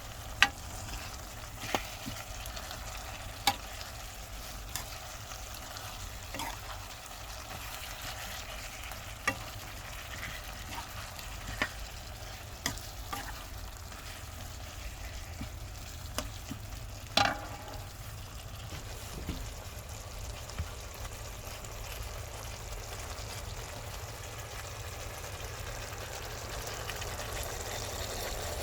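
Chicken frying and sizzling in a karahi while it is stirred, with a utensil knocking sharply against the pan every second or two. A steady low hum runs underneath.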